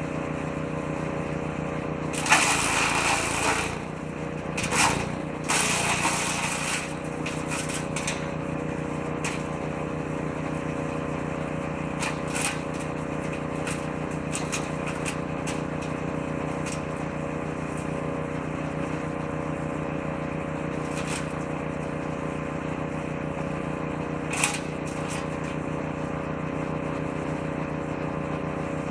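Engine-driven woodchipper-shredder running steadily, with loud grinding surges as branches are fed into the shredder drum during the first several seconds, then scattered sharp clicks and knocks of material going through, one louder knock near the end.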